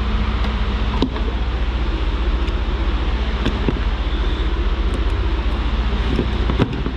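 2002 Jaguar XK8's 4.0-litre V8 idling steadily, running smoothly. A few sharp clicks or knocks sound over it, about a second in, midway and near the end.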